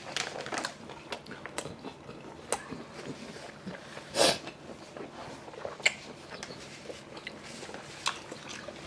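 Chewing and eating sounds from a meal of steamed seafood: scattered small clicks and wet smacks, with a short, louder noise about four seconds in.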